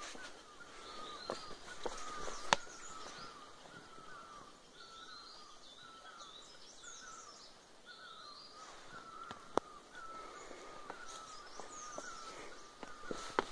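Birds calling in woodland: one bird repeats a short note about twice a second without letup, with higher chirps from other birds above it. There are two sharp snaps, about two and a half seconds in and about nine and a half seconds in, like twigs cracking underfoot.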